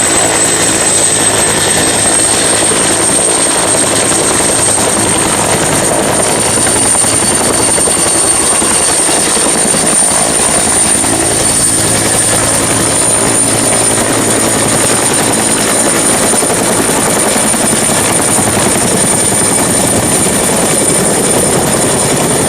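Helicopter sound: turbine engine and rotor running steadily, with a high whine that rises slightly over the first few seconds and then holds.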